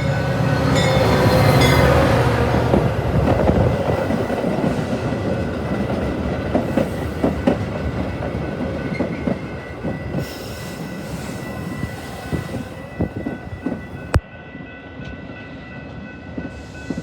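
Train passing: a low locomotive rumble, loudest about two seconds in, gives way to the cars' wheels clacking irregularly over rail joints. A thin steady ringing tone carries on over the clacking as the train slowly gets quieter.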